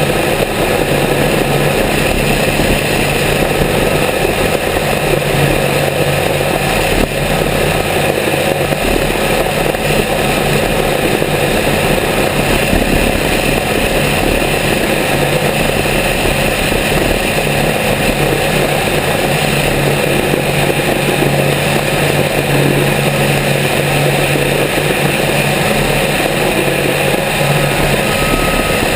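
Grumman G-44 Widgeon amphibian's twin piston engines running steadily and loudly, with an unchanging pitch.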